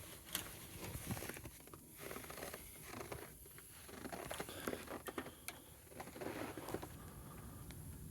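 Faint, irregular crunching and rustling in short bursts, from a person moving about in fresh snow.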